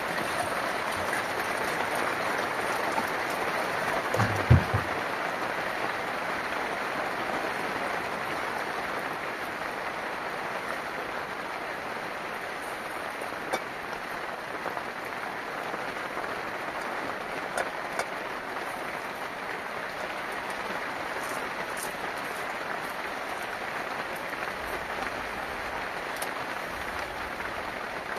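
Steady rain falling, an even hiss with a few faint ticks. One dull thump, the loudest sound, comes about four seconds in.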